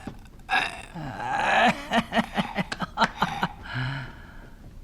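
Indistinct people's voices, with a run of short chuckle-like sounds.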